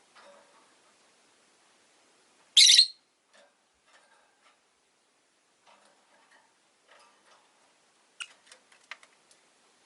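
Rosy-faced lovebird giving one loud, shrill call about two and a half seconds in, with faint scattered clicks around it and a quick run of short, sharp chirps near the end.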